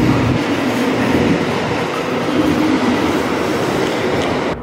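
Diesel train running: a steady rumble of wheels on rails with an engine drone. The sound cuts off abruptly at the very end.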